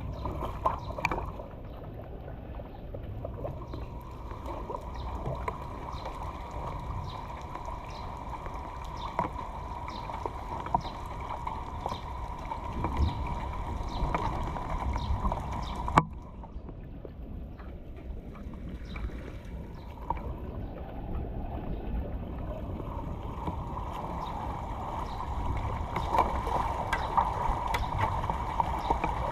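Water running and gurgling through a cleared drain or culvert, with a steady rumble. Light clicks or splashes come about once a second in the first half, and there is one sharp click about halfway through. The flow sounds quieter after that click and builds again near the end.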